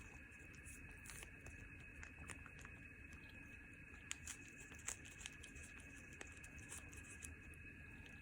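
A cat eating a treat: faint, scattered clicks and small crunching or smacking sounds, with a few sharper clicks around the middle.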